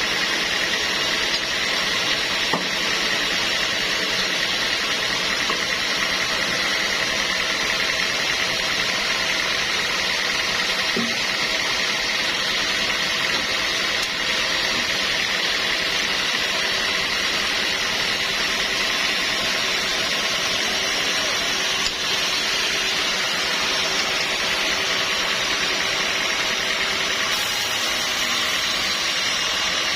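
Sawmill machinery running steadily, a constant mechanical noise with a high steady whine.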